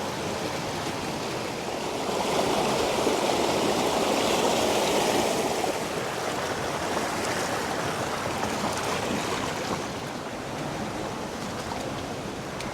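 Mill Creek's water rushing steadily through the canyon. It swells slightly about two seconds in and eases off again around ten seconds.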